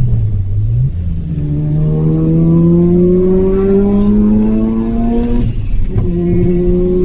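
Mazda RX-7 FD3S's turbocharged 13B two-rotor rotary engine under hard acceleration, the revs climbing steadily through a gear. There is a short break for an upshift about five and a half seconds in, then the revs climb again, with a high whine rising alongside.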